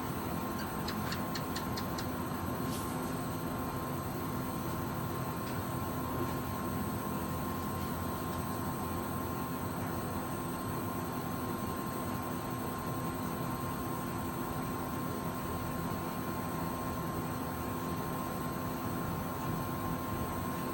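Steady hum and hiss with constant faint tones and no thunder, with a short run of faint ticks in the first two seconds and one sharp click about three seconds in.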